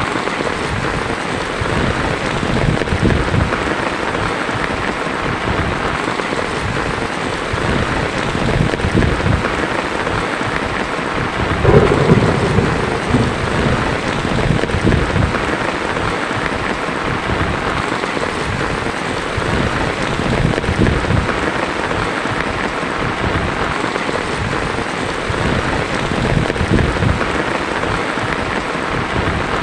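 Heavy rain falling steadily on a tin roof, with low thunder rumbles and one louder thunder clap about twelve seconds in.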